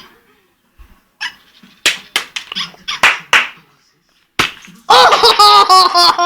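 A dog giving a series of short, sharp barks or yelps, followed about five seconds in by a loud, long cry whose pitch wavers.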